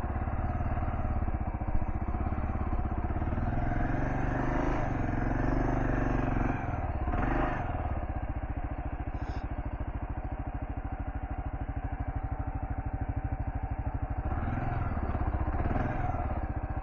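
Kawasaki KLR650's single-cylinder engine running as the bike is ridden off road. It gets louder under throttle from about four seconds in, eases near seven seconds, and picks up again near the end. A short knock comes about two seconds in.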